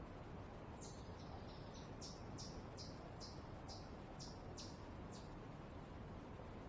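A small songbird singing a quick series of about eleven high, sharply down-slurred notes, two or three a second, over steady low background noise.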